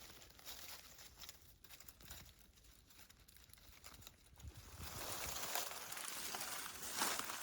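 Rustling, crinkling noise with many small crackles, growing louder about two-thirds of the way through.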